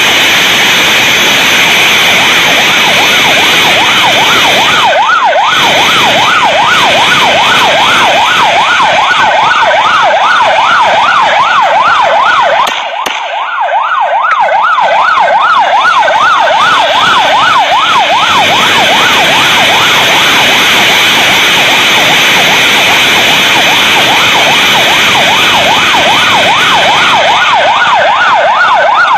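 Police siren in a fast rising-and-falling yelp, starting a few seconds in over loud, steady wind and road noise from a moving motorcycle. The noise drops out briefly about halfway through.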